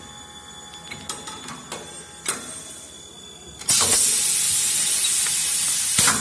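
Aerosol can filling machine: a few light clicks and knocks, then a loud, even hiss of gas that starts suddenly and runs for about two and a half seconds before cutting off with a click. This is the gas being charged under pressure into the can.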